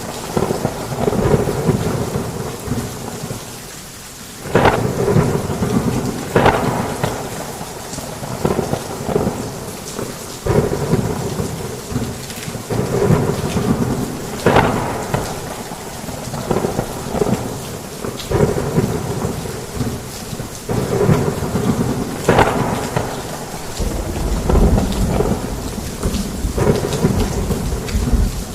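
Heavy rain pouring steadily, with thunder cracking and rumbling every few seconds; the rain briefly eases about four seconds in, and a deep, long thunder rumble builds near the end.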